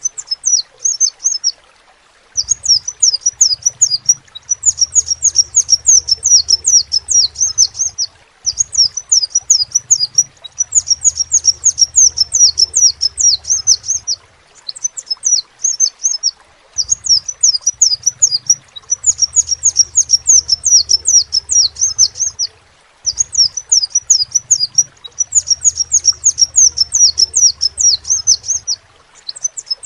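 Crimson sunbird singing: rapid strings of high, sharp chirps delivered in bursts of one to four seconds with short pauses between them.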